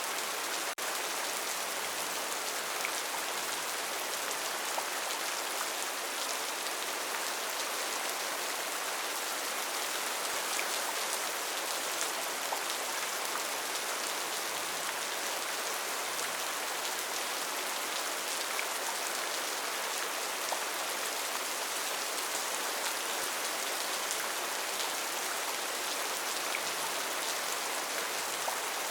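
Steady rain falling in a rainforest, a dense even hiss of drops with scattered single drop hits, and a momentary dropout just under a second in.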